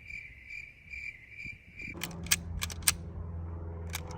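Crickets chirping in a steady pulsing trill, the comic 'awkward silence' effect, cut off abruptly about halfway through. It is followed by a low hum with several sharp clicks.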